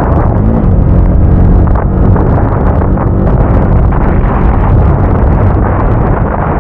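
Motorcycle engine running steadily under way, its pitch holding level apart from a brief rise and fall about half a second in, with heavy wind buffeting on the microphone.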